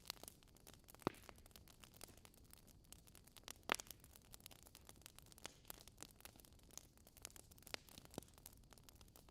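Wood logs burning in a fireplace, crackling faintly with scattered sharp pops. The two loudest pops come about a second in and just under four seconds in.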